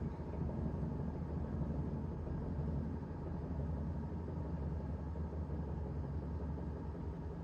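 Washing machine running: a steady low mechanical hum from its motor and turning drum.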